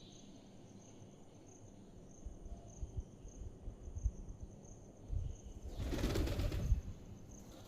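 Pigeons flapping their wings, with low thuds building to a loud burst of wingbeats about six seconds in.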